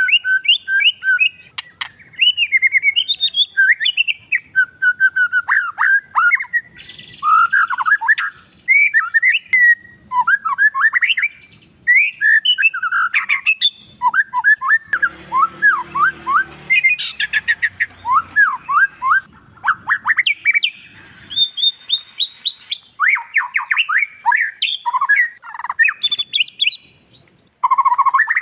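Oriental magpie-robin (kacer) in full song: a long, varied stream of rapid whistled notes, trills and chirps in quick phrases separated by brief pauses. This is the vigorous 'gacor' singing used as a lure recording to prompt other kacer to sing.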